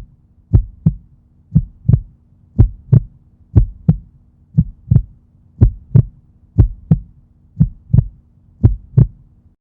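Heartbeat sound effect: a steady double thump, lub-dub, about once a second, over a faint low hum.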